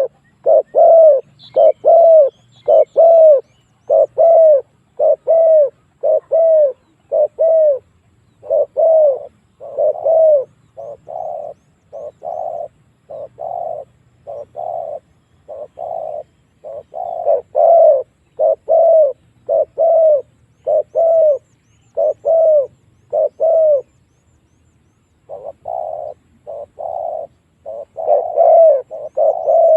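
Spotted dove cooing in a long, steady series of short notes, a little over one a second, with a pause of about a second near the end. This is a decoy call used to draw wild spotted doves in to fight.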